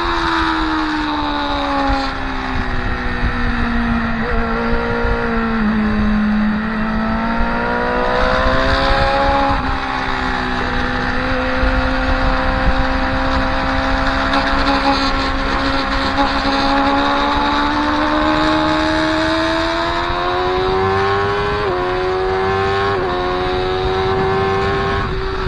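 Motorcycle engine heard from on board at track speed, over heavy wind rush. The engine note falls for the first few seconds, then rises again, with several gear changes heard as sudden steps in pitch.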